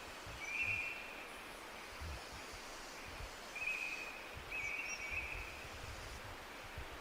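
Forest ambience: a songbird giving three short chirping phrases, one about half a second in and two more around the fourth and fifth seconds, over a steady hiss and an irregular low rumble.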